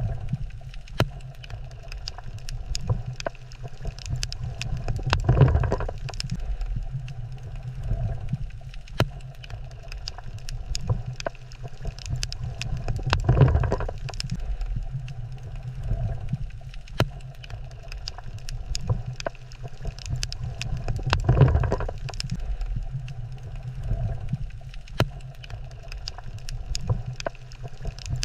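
Underwater coral reef ambience: a dense, constant crackle of sharp clicks over a low steady hum, with a swell of whooshing noise about every eight seconds.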